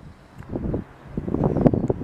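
Wind buffeting the microphone in uneven gusts, swelling about half a second in and louder again over the second half.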